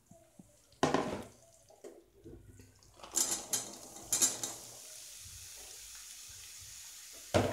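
Drained, cubed brinjal tipped from a plastic colander into a wok of hot oil and fried garlic: the colander knocks on the pan, the pieces clatter in twice, then a steady hiss of frying follows, with a sharp knock near the end.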